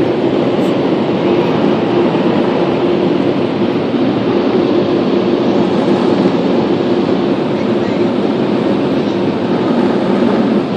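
Automatic car wash blower dryers running, a loud steady rush of air with a constant hum, heard from inside a car passing slowly under them.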